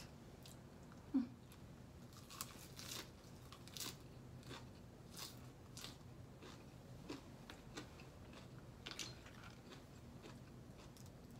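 Close-miked chewing of crunchy papaya salad: a string of short, crisp crunches every half second to a second, with one sharper, louder knock about a second in.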